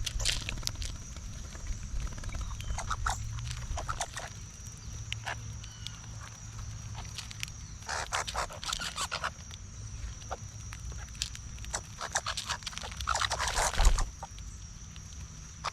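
Birds and animals at a backyard feeder: scattered sharp clicks and scuffling rustles, with two busier bursts of scuffling about halfway through and near the end, the second the loudest. A steady thin high tone and a low hum run underneath.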